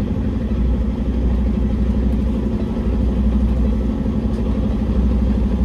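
Semi truck's diesel engine running steadily at low revs, a low, even hum while the rig creeps along at crawling speed.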